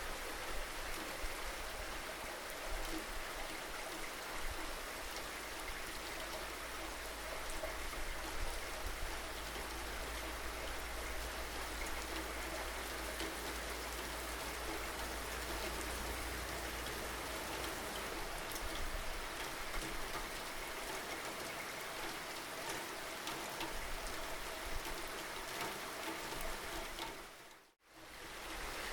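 Steady rainfall with scattered single drops ticking on a surface, over a low rumble that fades out about two-thirds of the way through. Near the end the sound briefly fades to silence and returns.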